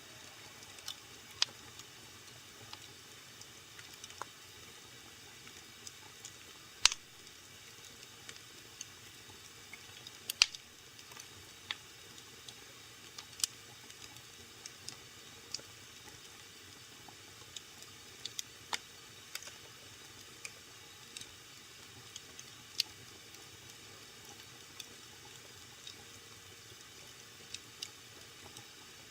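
Wood fire crackling in a fireplace: scattered sharp pops and snaps over a faint steady hiss, the loudest pops about seven and ten seconds in.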